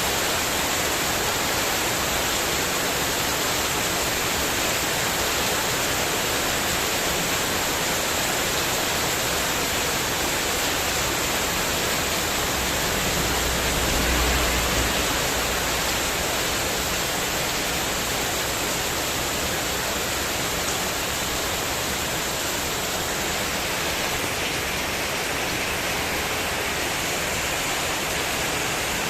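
Heavy wind-driven rain falling steadily on a spandek metal terrace roof, an even dense hiss. A low rumble swells briefly about halfway through.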